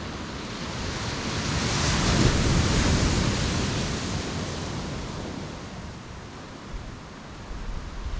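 Sea waves breaking on the beach: one wave builds, breaks about two seconds in, and its wash fades away over the next few seconds.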